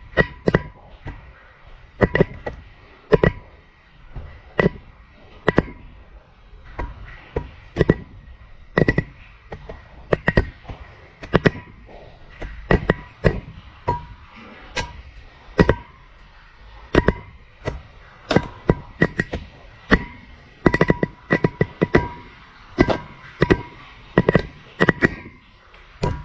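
A GoPro camera on a string knocking and tapping against the inside of a narrow, deep pipe as it is lowered: irregular sharp knocks, a few a second.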